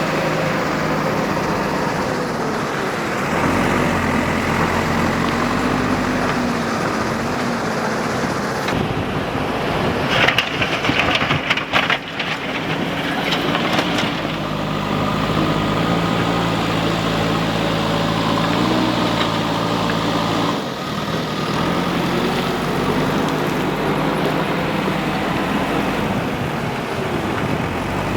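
Diesel engine of a JCB 3DX backhoe loader working, its pitch rising and falling as it revs and settles. A stretch of rattling and knocking comes about ten to fourteen seconds in.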